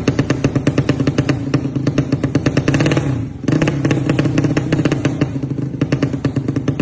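Tuned racing motorcycle engine with an open exhaust idling low and lumpy, a loud, even pulsing of about ten beats a second. It sags briefly about three seconds in, then picks back up.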